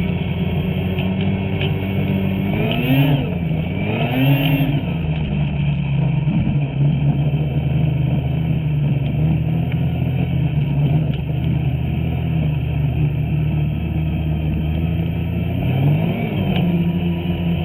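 Two-stroke snowmobile engine running steadily under way. It revs up and back down twice in quick succession a few seconds in, and once more near the end.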